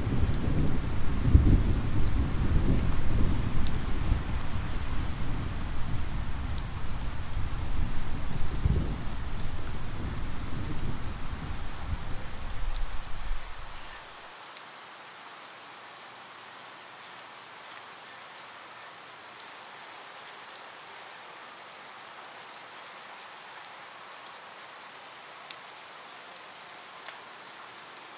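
Steady rain falling, with a deep rumble under it that cuts off suddenly about halfway through, leaving an even rain hiss with scattered sharp drips.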